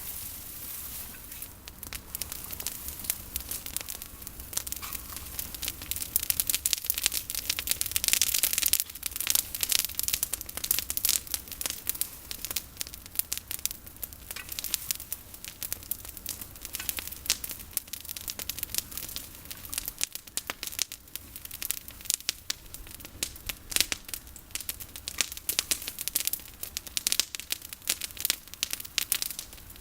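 Campfire of olive-tree prunings burning, with dense, irregular crackling and snapping throughout, busiest from about six to ten seconds in.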